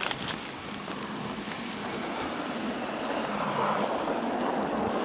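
A car passing on a snow-covered road, its rushing tyre and engine noise swelling through the second half.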